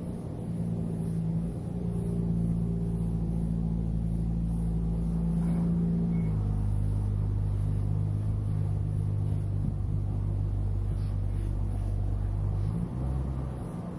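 Engine or motor running with a steady low hum. Its pitch drops about six seconds in and shifts again near the end.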